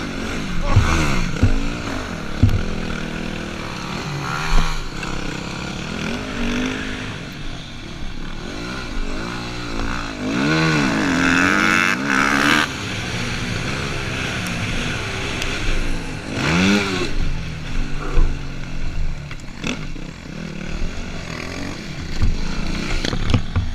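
Yamaha WR250F's four-stroke single-cylinder engine revving up and falling back again and again as the dirt bike is ridden, with a few sharp thumps.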